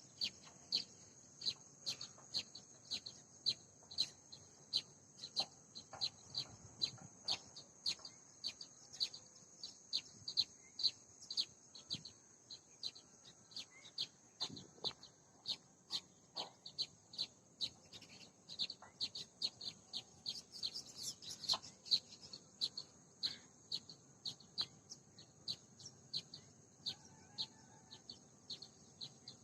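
Tailorbird calling: sharp, high chirps repeated about twice a second, over a steady high-pitched hum.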